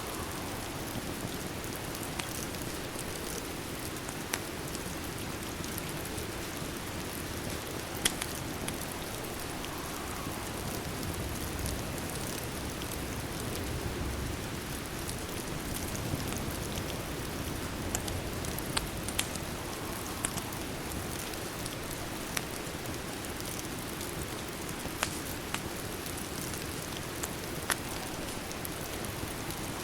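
Steady rain, with single sharp pops and crackles from a wood fire every few seconds.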